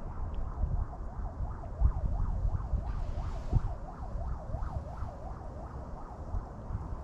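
Wind buffeting the microphone in gusts, with a fainter warbling tone over it that rises and falls about three times a second.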